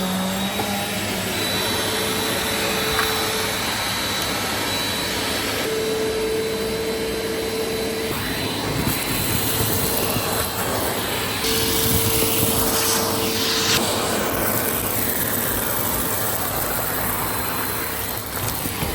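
Bissell CleanView compact vacuum cleaner running with a steady rush of air and a humming motor tone that drops in and out, the hiss growing brighter for a few seconds around the middle.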